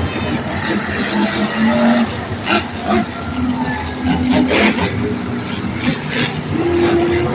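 Monster truck engines running and revving: supercharged alcohol-fuelled V8s, their pitch shifting up and down over a loud, dense din.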